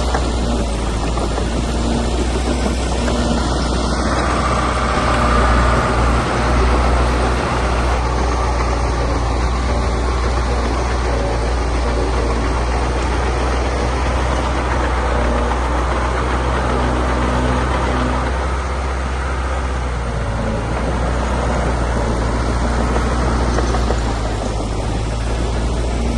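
Diesel engine of heavy earthmoving machinery running with a steady low drone. The engine noise swells about four seconds in and eases briefly around eighteen to twenty seconds.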